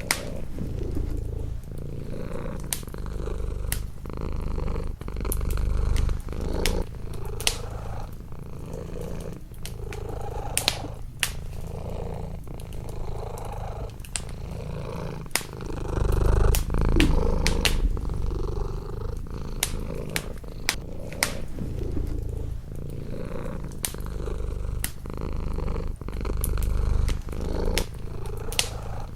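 Domestic cat purring close up, a low rumble that swells and fades with each breath, over a wood fire's crackle of scattered sharp pops.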